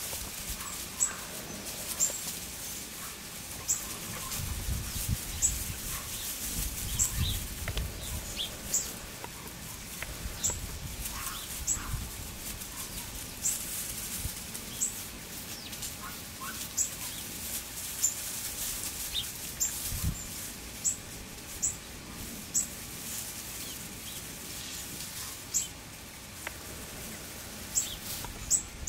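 A small bird chirping in short, high notes about once a second, over the rustle of straw as Boxer puppies move about on it.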